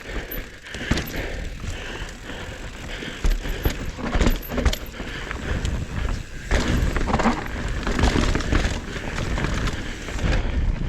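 Mountain bike rattling down a rough trail: chain and frame clattering with many sharp knocks over bumps, over a steady low rumble of the tyres on dirt.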